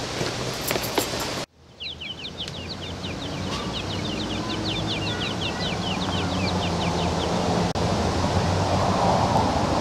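Bird chirping in a fast run of short, quick notes, about six a second, for several seconds, beginning right after a sudden cut a second and a half in, over steady background noise.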